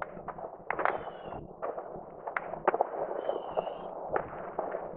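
Distant New Year's fireworks: many rockets and firecrackers going off in irregular, overlapping bangs and crackles, with a few short high whistles among them.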